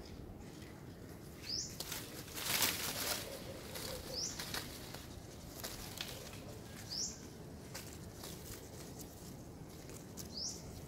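A bird repeating a short, high, rising chirp four times, about once every three seconds, over a steady outdoor background. A louder brief burst of noise comes about two and a half seconds in.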